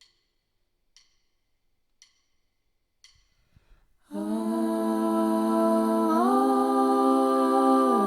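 Four light clicks, one a second, counting the band in. Then several voices hum a held chord together, which steps up in pitch about halfway through and stops near the end.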